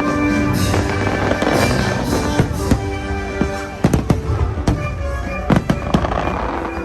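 Fireworks bursting and crackling in a rapid, irregular series of sharp bangs, over the show's music playing through loudspeakers.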